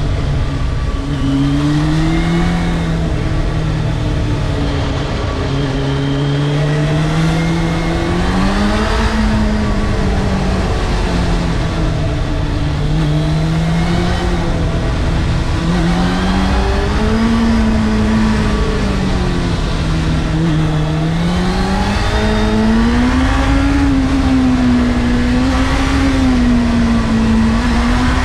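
Honda CBF600's inline-four engine heard onboard, its pitch rising and falling again and again as the rider opens and closes the throttle, over a steady low rush of wind. The engine note climbs higher near the end.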